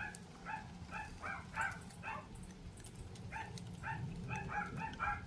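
An animal calling in a run of short, high, pitched yips, about two or three a second.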